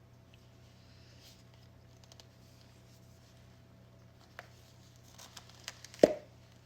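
Faint rustling as a small perfume case is handled, then a few light clicks and one sharp, loud click about six seconds in as the case is worked open by twisting.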